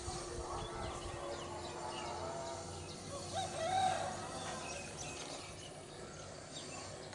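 Outdoor background with small birds chirping throughout, and one louder, short pitched call about three and a half seconds in.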